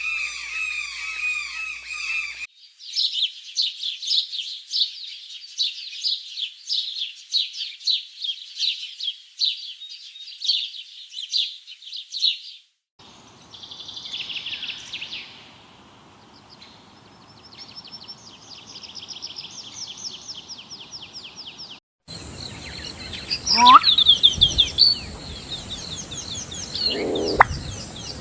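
Birds chirping and calling in a run of short clips cut together, each starting and stopping abruptly. One clip is a fast series of high chirps lasting about ten seconds. Near the end, a louder clip adds a few lower calls.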